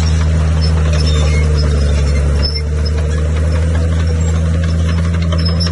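Bulldozer's diesel engine running steadily under load, dipping briefly about halfway through, with short high squeaks over it.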